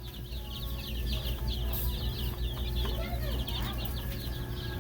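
Many young chicks peeping together in a continuous stream of short, high chirps, over a steady low hum.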